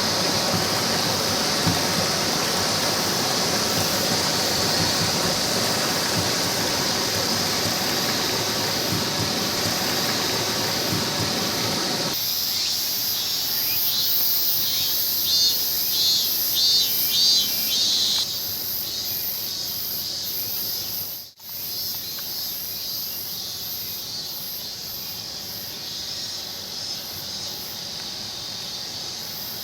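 Steady rushing of a mountain stream, its character shifting abruptly a few times, with a run of short high chirps repeating a little past the middle.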